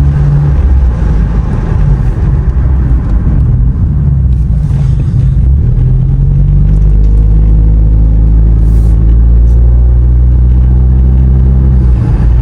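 Car engine running as the car drives, heard from inside the cabin: a loud, steady low drone, rougher in the first few seconds and evening out about halfway through.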